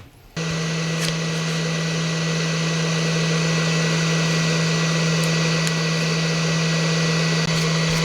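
A small electric motor switches on, runs at a steady speed with a strong hum, then switches off and winds down, its pitch falling.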